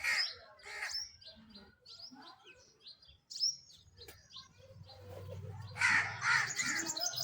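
Birds chirping and calling in quick short notes, loudest at the start and again in a dense flurry near the end, with a low hum underneath in the second half.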